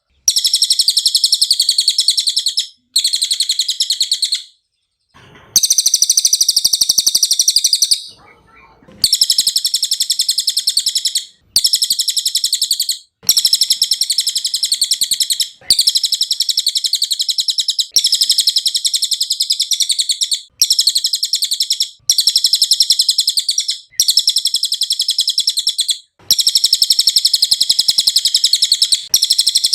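Cililin song: high, fast trilling phrases of about two seconds each, repeated one after another with short breaks between them.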